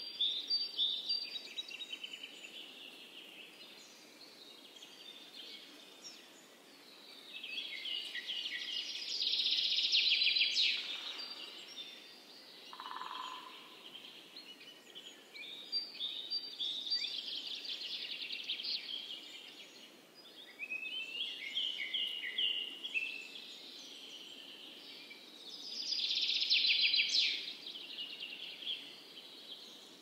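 Songbirds chirping and trilling in repeated bouts of a few seconds, over a steady background hiss. The loudest, densest trills come about a third of the way in and again near the end.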